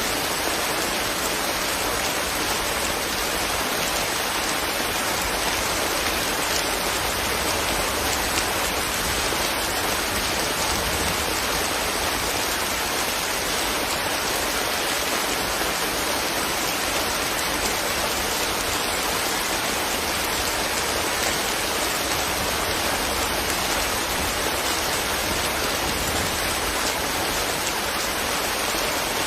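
Steady rain falling, an even, unbroken hiss of drops that does not change.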